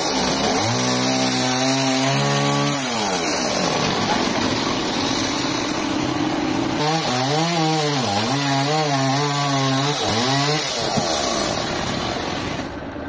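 Chainsaw running under load, cutting lengthwise through a trembesi log on a chainsaw mill. Its engine pitch sags and recovers several times as the chain bites into the wood. The sound drops off abruptly near the end.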